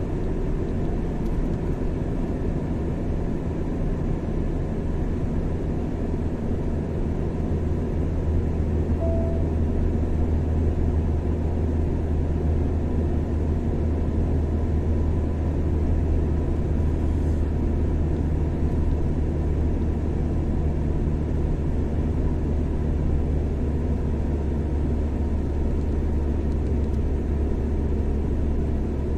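Car driving at a steady speed on a highway: a constant low rumble of engine and tyre noise with a faint steady hum, no changes in pace.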